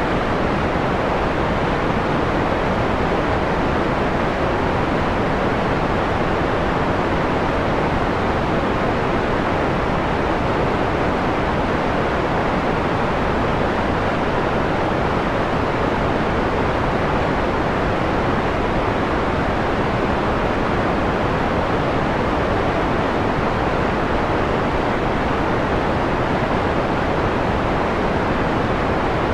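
Steady electronic white noise, filtered dark and mellow so the high hiss is mostly rolled off.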